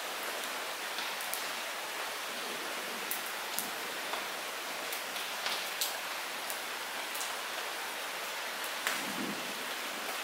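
Light rain falling steadily as an even hiss, with scattered individual drops ticking sharply on nearby surfaces.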